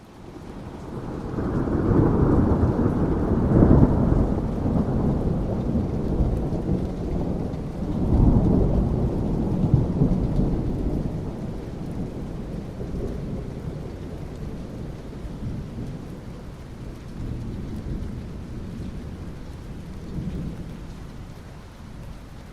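Rolling thunder over steady rain. The deep rumble builds over the first couple of seconds, swells a second time about eight seconds in, then slowly rolls away while the rain hiss carries on.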